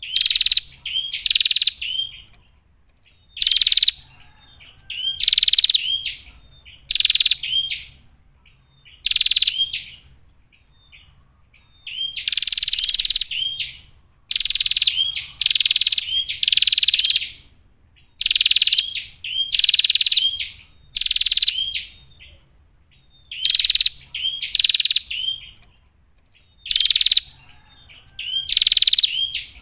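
Female prinia (prenjak) calling: repeated short, rapid chattering bursts of about half a second to a second each, coming singly, in pairs or in runs of three or four, with short pauses between them.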